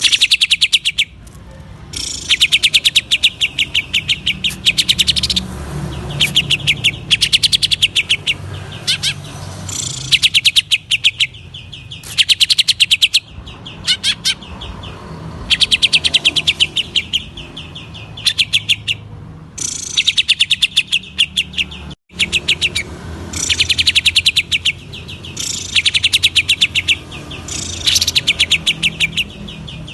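Green leafbird (cucak ijo) singing in repeated bursts of rapid-fire, high-pitched notes. Each burst lasts about a second, with short pauses between them, in the fast chattering 'ngentrok' style that keepers prize.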